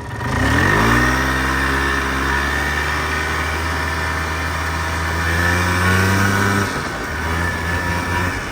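1995 Polaris Trail Boss 250 ATV engine under way: the note rises as it picks up speed in the first second, holds steady while cruising, then drops back about seven seconds in as the throttle is eased off.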